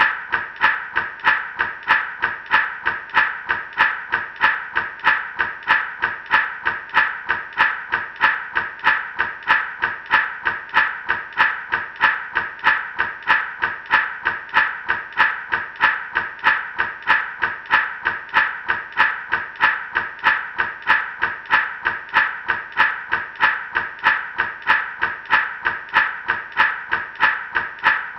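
Gourd rattle shaken in a steady, even rhythm, about two shakes a second.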